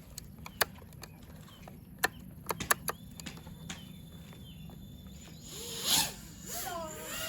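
Several sharp clicks and light handling noise, then about five and a half seconds in an FPV racing quadcopter's brushless motors spool up with a loud rush and a buzzing whine that wavers up and down in pitch with the throttle.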